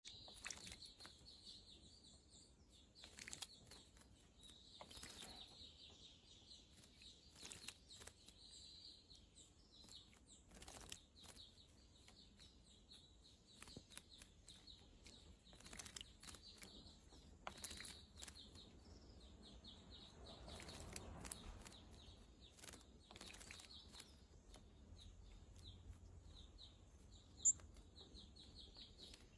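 Faint bird chirps and calls that go on throughout, broken by short bursts of wing-flapping and splashing as birds bathe in a bird bath. There is a sharp click near the end.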